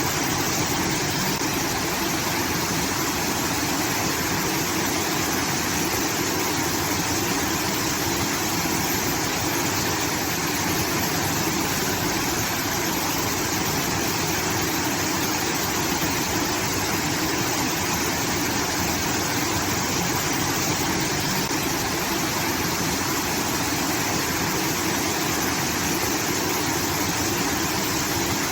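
Rice-field irrigation water pouring and splashing in a steady, unbroken rush, like a small waterfall.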